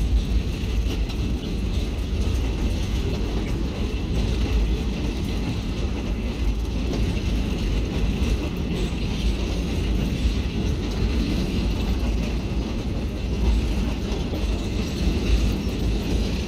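Passenger train running steadily, heard from an open-air car: continuous rattle and clatter of the cars and wheels on the track over a low rumble that may be partly wind on the microphone.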